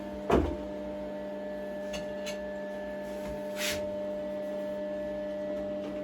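A steady multi-pitched mechanical hum, with one loud knock about a third of a second in, a few light clicks, and a short hiss a little past halfway.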